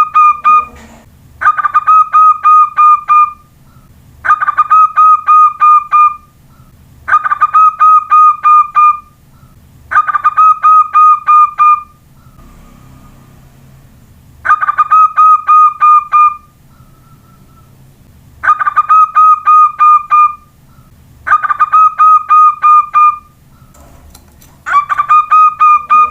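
Zebra dove (perkutut) cooing: a run of about eight phrases, each made of quick rapid-fire coos lasting about two seconds, with short pauses between phrases.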